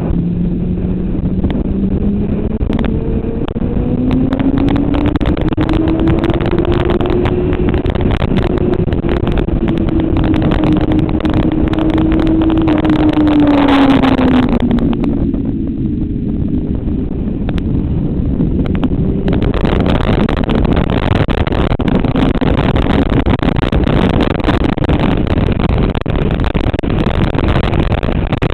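Motorcycle engine pulling hard under heavy wind rush. Its pitch climbs steadily for the first several seconds, holds, then drops about halfway through as the bike slows, before the rush builds again.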